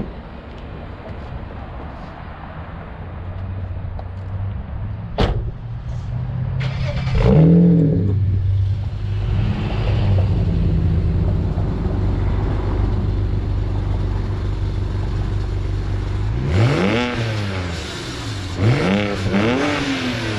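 BMW 335i's twin-turbo N54 inline-six idling through the stock exhaust with its two mufflers, revved once about seven seconds in and twice more near the end.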